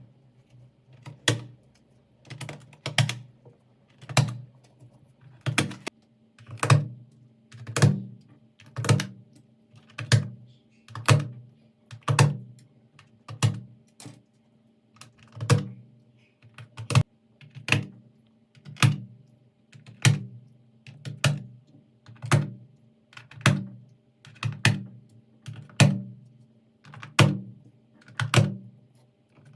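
Computer keyboard keys being pressed: short clusters of two or three sharp clacks, each with a dull thud, coming about once a second in an even rhythm.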